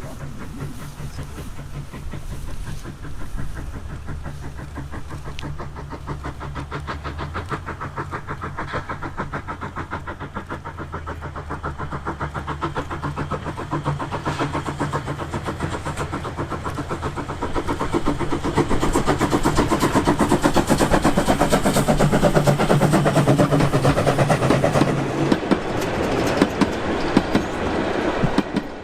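Small steam locomotive running with a train: a steady rhythm of exhaust beats and wheel-and-rail clatter, growing louder about two-thirds of the way through as it draws closer, then cut off abruptly.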